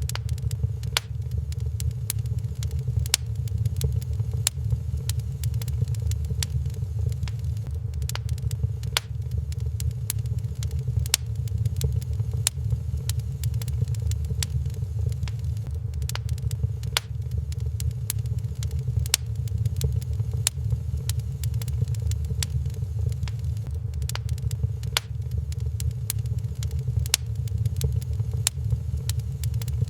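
Wood fire crackling in a fireplace, with sharp irregular pops and snaps throughout, over a steady low rumble.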